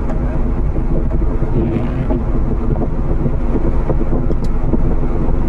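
Subaru Forester's flat-four engine running under load with a steady low drone while the car slides on a muddy trail, with a few short knocks from the car, one clear one about four seconds in.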